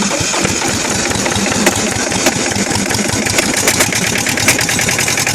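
Kohler KD425-2 two-cylinder diesel engine running just after a hard cold start, with an uneven clatter that settles into a rapid, even beat about three and a half seconds in. The owner suspects an air leak is making it lose fuel prime.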